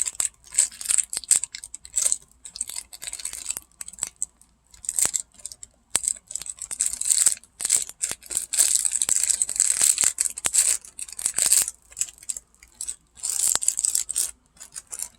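Crinkling and tearing of plastic cracker packaging in short irregular bursts, with scattered small clicks and crunches.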